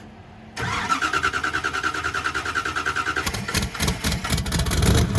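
A vehicle engine being started: the starter cranks with a quick, pulsing whine for a couple of seconds, then the engine catches about three seconds in and runs unevenly, getting louder near the end.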